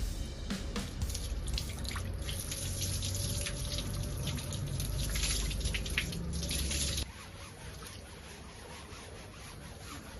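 Water running and splashing, as from a tap or hose during cleaning; it cuts off abruptly about seven seconds in, leaving fainter dripping and splashing.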